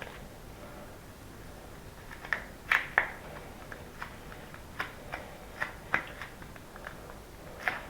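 Irregular light clicks and taps from small objects being handled, with two louder sharp clicks close together about three seconds in.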